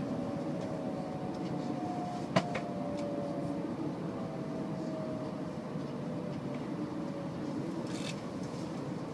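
Tokaido Shinkansen train heard from inside the passenger cabin as it slows alongside a station platform: a steady running rumble with a faint whine slowly falling in pitch, and a sharp click about two and a half seconds in.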